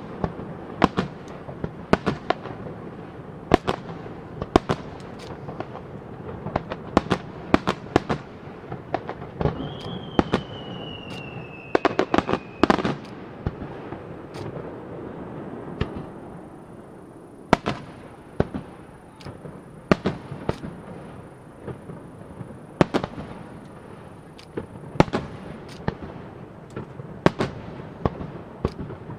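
Aerial firework shells bursting one after another at an irregular pace, often several sharp bangs a second, over a continuous rumble. About ten seconds in, a whistle slides slowly down in pitch for a couple of seconds.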